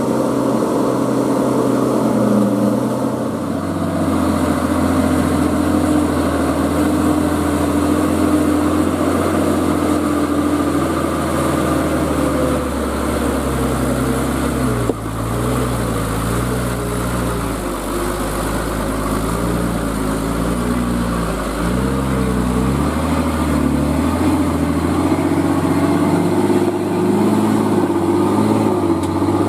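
Heavy truck engine running under load, its pitch swinging up and down several times in the middle before settling back to a steady note.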